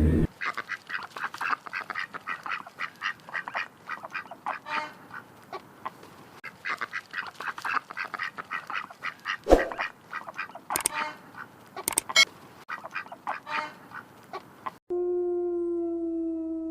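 Many short animal calls in quick, chattering succession. A little before the end it cuts to a single long call at one steady pitch that falls slightly.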